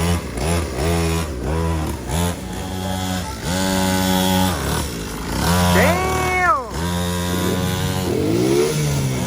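Small two-stroke engine of a 50cc kids' automatic dirt bike revving up and down over and over: quick short throttle blips at first, then longer pulls, with one higher rev about six seconds in.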